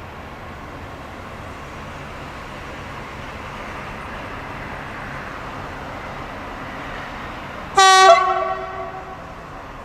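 SNCF BB 67300/67400 diesel locomotive drawing a train slowly closer, its rumble swelling steadily, then one short, loud blast of its horn about eight seconds in that dies away over about a second.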